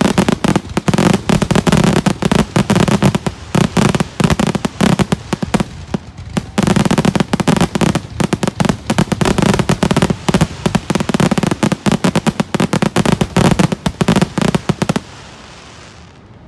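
Fireworks finale: a dense barrage of aerial shell bursts and crackles, rapid overlapping bangs with a deep rumble, that stops abruptly near the end.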